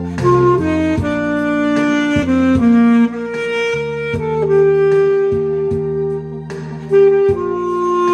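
Saxophone playing a slow ballad melody in long held notes over a backing track with steady bass notes.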